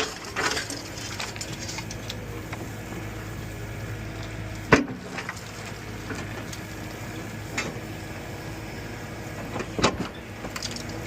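A heavy machine's engine running steadily while a house is torn down, with scattered cracking and clattering of breaking wood and debris. One sharp, loud crack about five seconds in, and smaller knocks near the end.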